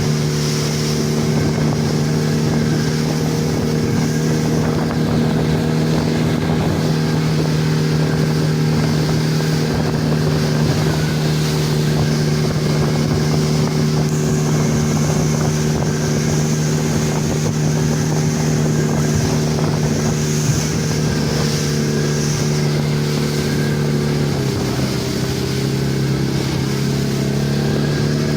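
Speedboat engine running steadily at speed, with wind and water rushing. About 24 seconds in the engine pitch drops, as if throttling back, then creeps slightly up again near the end.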